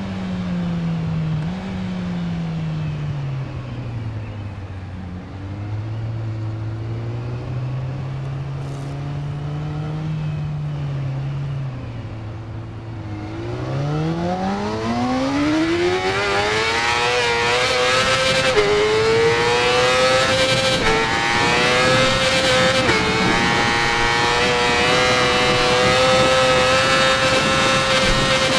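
Yamaha R6 inline-four engine running through an aftermarket Akrapovic exhaust. The engine note sinks and stays low for the first half, then rises steeply as it revs up about halfway through and holds at high revs, dipping briefly a few times.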